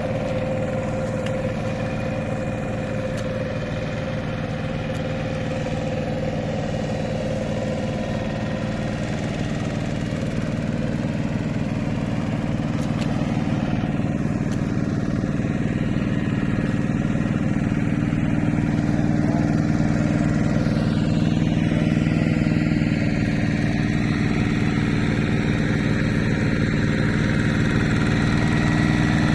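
Hand tractor engine running steadily, gradually growing a little louder.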